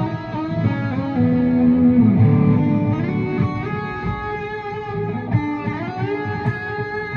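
Guitar improvising a melody in D Lydian, single notes sliding and bending in pitch over low notes left ringing.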